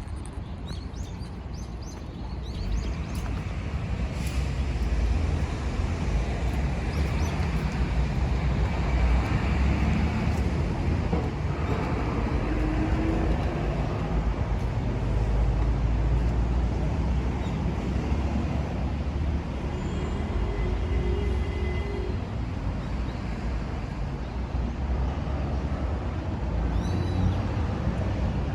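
Steady road traffic noise with a low rumble, and a few short bird chirps near the start.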